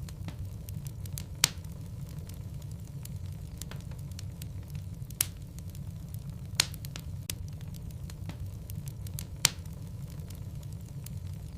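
Logs burning in a fireplace: a steady low rumble from the fire with frequent small crackles, and four sharp pops spread through.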